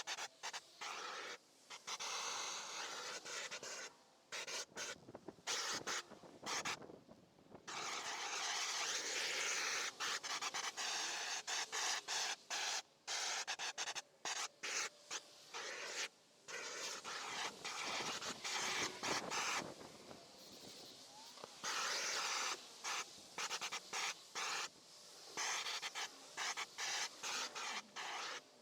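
Rubbing and scraping of an abrasive on carved wood, heard as noisy stretches broken by many abrupt cuts to quiet.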